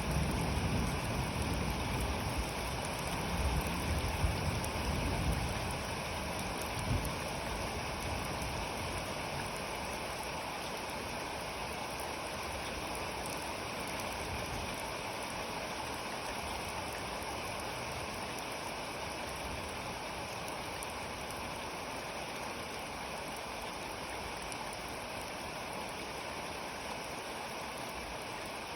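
Steady rain falling during a thunderstorm. A low thunder rumble dies away over the first several seconds.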